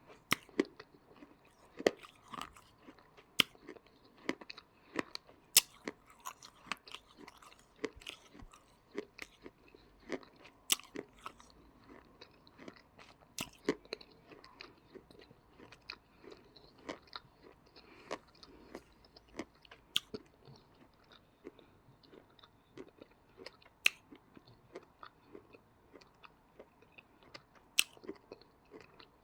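Close-up crunching and chewing of dry yellow edible clay (choy): sharp, crisp cracks at irregular intervals, roughly one a second, over softer chewing.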